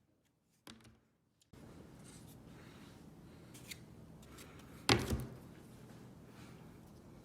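Drafting and hand tools being handled on a work surface. A small click comes early, then a steady low room hum starts, and about five seconds in a sharp knock with a short clatter is the loudest sound.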